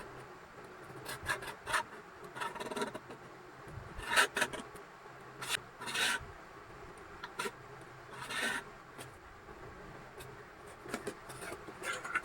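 Short, irregular scraping and rubbing strokes of hand work on a material, about a dozen spread unevenly with pauses between them.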